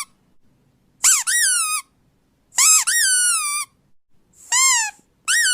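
A squeaky rubber dog toy squeezed four times. Each high squeak rises then falls in pitch, and the last, near the end, holds a steady note.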